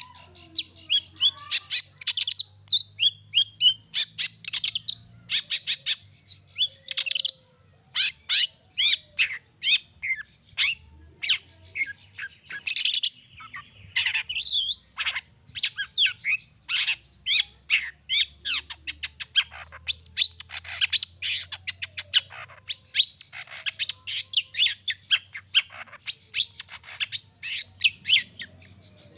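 Long-tailed shrike (cendet) singing a fast, varied chattering song of sharp, high notes, almost without pause.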